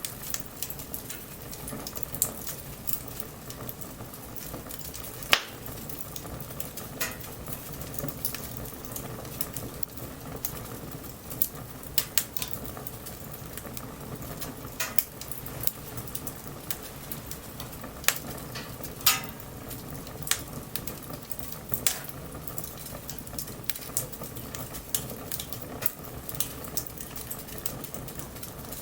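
Wood bonfire burning, crackling with irregular sharp pops over a steady hiss, a few pops much louder than the rest.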